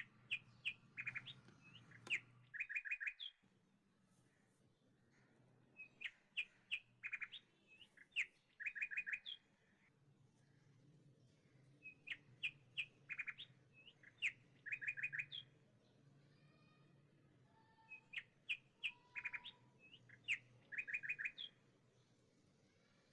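Birds chirping: a phrase of rapid, high chirps lasting about three seconds, repeated about every six seconds in much the same pattern.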